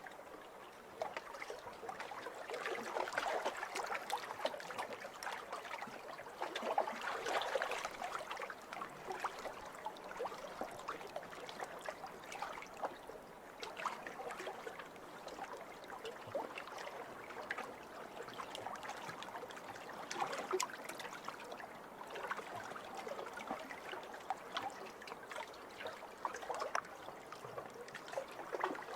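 Small waves lapping over a pebble shore, rising in gentle surges a few seconds apart, with the fine clicking rattle of water running through the stones.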